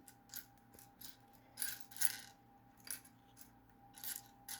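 Small plastic building-brick pieces clicking and clattering as they are sorted through by hand, in several short bursts with the longest about halfway through.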